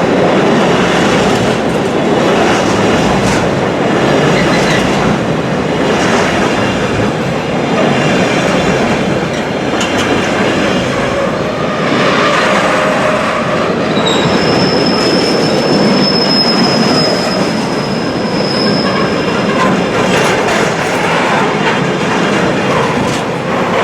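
A train passing close by, its wheels clattering rhythmically over rail joints, with a thin high wheel squeal from about 14 seconds in that lasts around five seconds.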